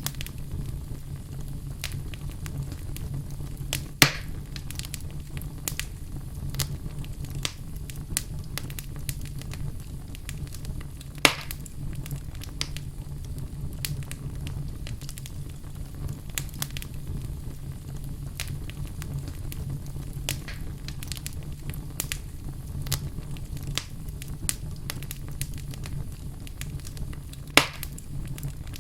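Wood fire burning in a fireplace: a steady low rumble with frequent small crackles and three louder pops spread through.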